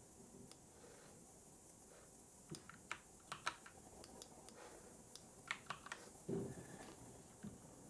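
Computer keyboard typing in two short, irregular bursts of keystrokes, with a soft low thump about three-quarters of the way through.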